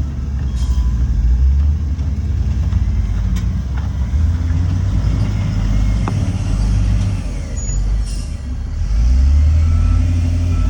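Heavy diesel earthmoving machinery running, a deep steady rumble that swells and eases, getting louder about nine seconds in, with a few faint clicks and clanks.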